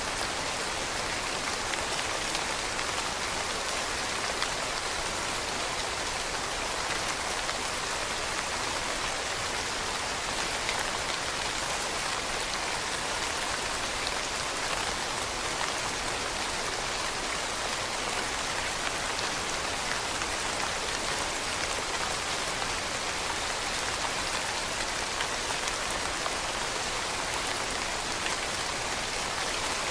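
Steady rain falling on leaves, an even hiss with scattered drop ticks.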